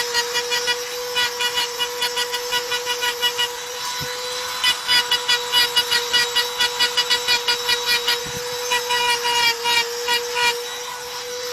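Electric drill running steadily with a constant whine, overlaid by a fast rattling chatter of about five pulses a second.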